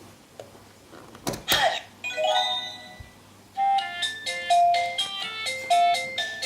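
An electronic toy playhouse: a couple of clicks, then a short chime, then a bright beeping electronic tune that starts about three and a half seconds in.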